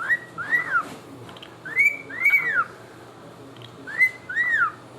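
Cockatiel whistling a two-note phrase three times: a short rising note, then a longer note that rises and falls.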